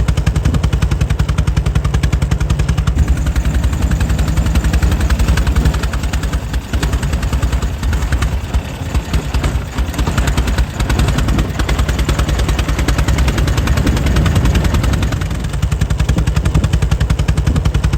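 Air-cooled 1904 Mitchell engine running with a fast, steady beat of firing pulses. The beat turns uneven for a few seconds in the middle, then steadies again.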